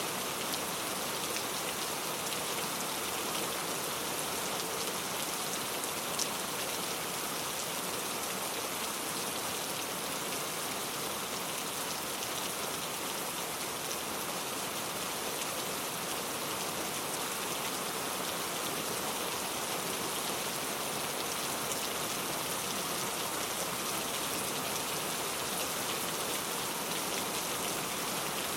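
Heavy rain falling steadily, an even hiss of many drops hitting a surface, with a single slightly louder drop tick about six seconds in.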